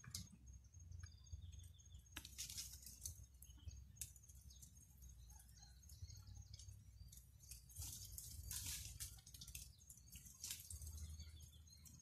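Faint scattered bird chirps over a low rumble, with a few brief rustles.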